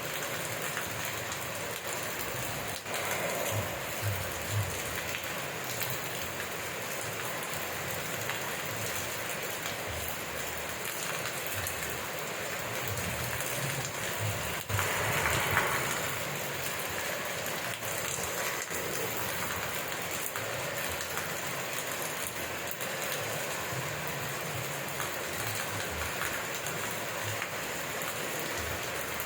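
Steady rain falling and pattering on surfaces, with a brief louder rush about halfway through.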